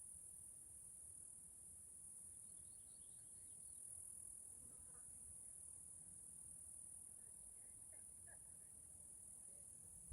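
Cicadas buzzing in a faint, steady, high-pitched drone, with a few faint short chirps from other animals.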